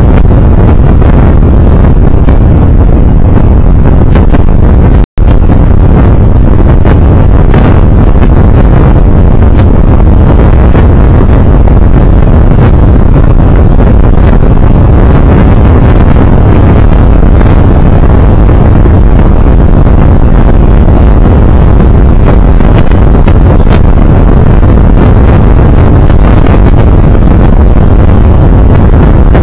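Loud, steady wind rushing over the microphone of a recorder on a moving vehicle, mixed with road and engine noise, cut by a brief total dropout about five seconds in.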